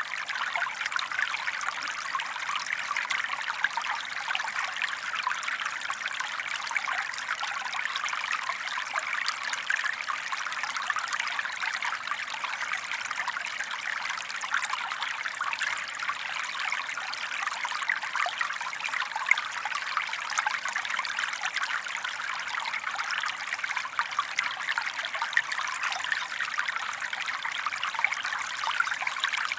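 Small forest stream flowing and trickling over stones, a steady splashing babble that doesn't change.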